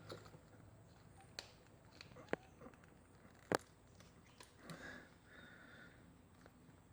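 Faint, scattered sharp clicks and taps, four or five spaced over the first few seconds, as a clip on the motorcycle is worked loose by hand. Soft rustling follows near the middle.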